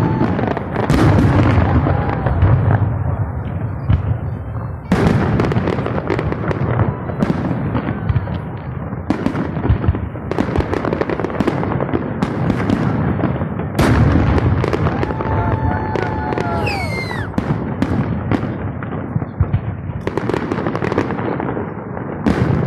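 Fireworks salute: a dense run of sharp bangs and crackling from shells bursting overhead, with heavier volleys starting about five seconds in and again near fourteen seconds.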